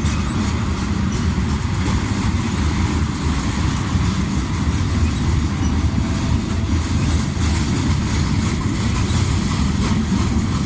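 Freight train rolling past, a steady rumble of wheels on the rails with no horn.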